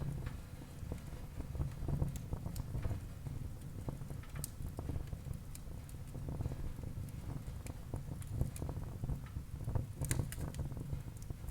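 Wood fire burning in a fireplace: a low steady rumble of flames with irregular crackles and sharp pops, a quick cluster of pops about ten seconds in.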